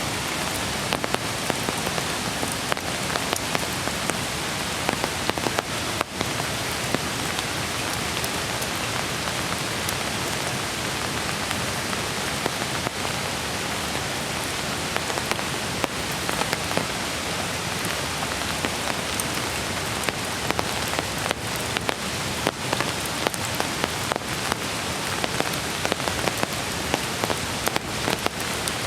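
Steady rain falling on wet surfaces: an even hiss with many irregular sharp drop hits.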